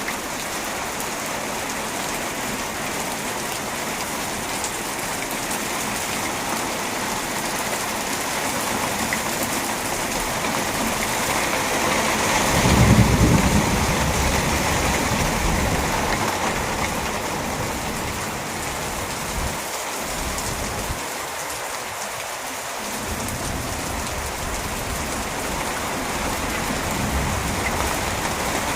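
Heavy rain pouring steadily, a dense hiss of rain on surfaces. About twelve seconds in, a low rumble swells briefly and is the loudest moment.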